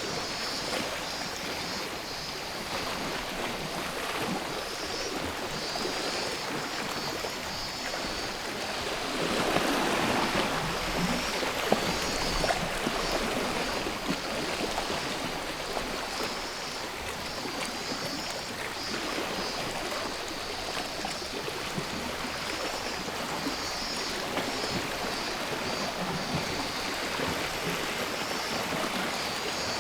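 Sea waves washing on the shore, one surging louder about ten seconds in, under a high, pulsing chorus of cicadas.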